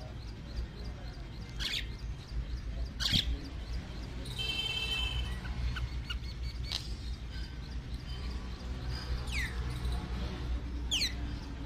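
Birds calling: a few short, sharp high calls, a brief buzzy call about halfway, and two downward-slurred whistles near the end, over a steady low rumble.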